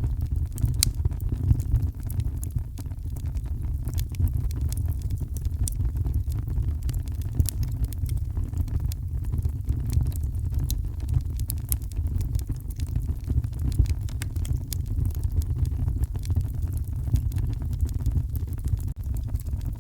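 Heavy rain with a wood fire crackling in a fireplace: a steady deep rumble under many sharp, irregular pops and crackles.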